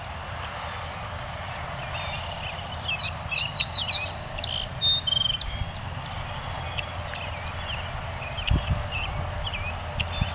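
Many short, high bird chirps and rising peeps, busiest a few seconds in, over a steady outdoor hiss, with a single low thump near the end.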